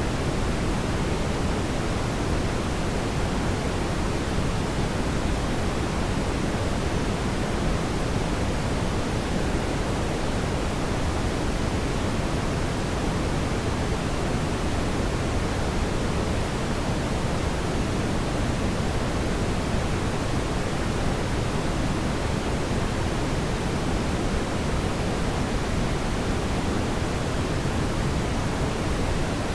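Fireplace ambience: a steady, even rushing hiss, heaviest in the low range, with no distinct crackles or pops.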